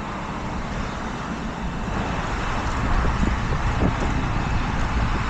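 Wind rushing and buffeting on the camera microphone of a moving bicycle, with steady road noise underneath; it grows a little louder about two seconds in.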